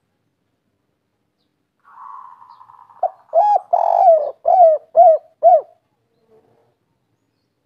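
Spotted dove cooing one song phrase: a faint murmur, then about five loud coos in quick succession over some three seconds.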